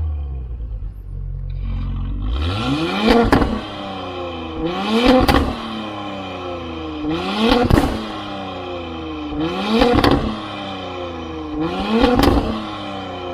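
Porsche Cayenne Coupe 3.0T's turbocharged V6, through a Tneer catless full exhaust system, revved five times from idle. Each rev rises and falls with a sharp crack at its peak, about every two seconds.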